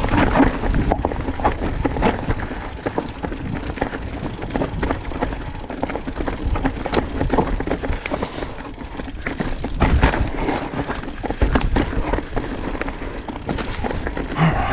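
Mountain bike clattering down a rocky descent: steady rattle and knocking of the frame, chain and tyres over rock, with a heavy knock about ten seconds in.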